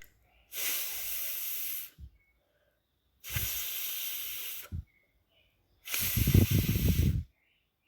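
A woman voicing the 'fff' sound of the letter F three times, each a long hiss of about a second and a half, with pauses between. The last one is the loudest.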